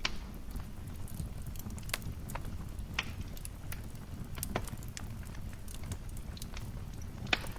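Wood fire crackling in a fireplace: a steady low rumble of burning with scattered sharp pops and snaps, the loudest pop near the end.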